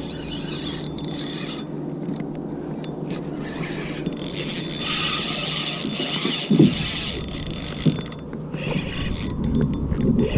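Fishing reel being cranked, its gears turning with a steady mechanical whir and fine clicking, with a single dull bump about two-thirds of the way through.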